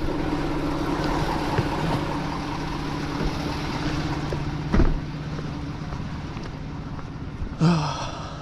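Vehicle engine idling steadily, with a single knock about five seconds in and a short high-pitched sound near the end.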